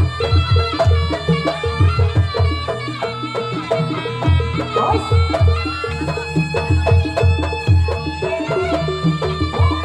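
Javanese jaranan gamelan music played live: a fast, steady rhythm of deep drum strokes under ringing pitched metal percussion, with no pause.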